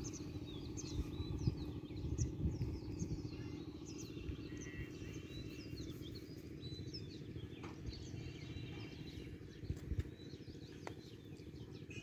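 Small birds chirping in many quick, short calls over a low steady background hum, with a couple of faint ticks in the second half.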